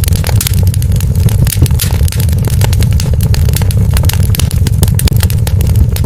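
Wood fire crackling: many quick, irregular pops and snaps over a steady low rumble of the burning fire.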